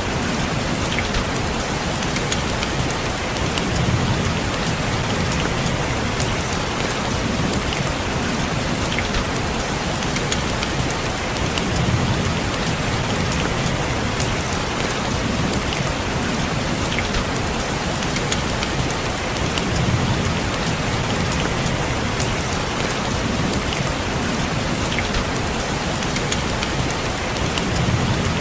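Steady rain falling on a window, with individual drops ticking sharply now and then. A low rumble swells up and fades about every eight seconds.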